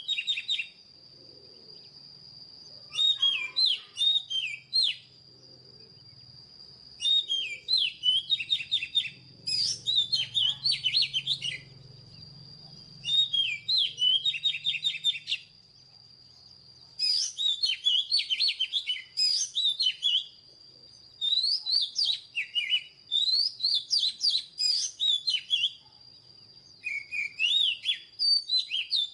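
Oriental magpie-robin singing: a run of loud, varied whistled phrases of sliding and warbling notes, each lasting one to three seconds, separated by short pauses, over a steady high-pitched tone.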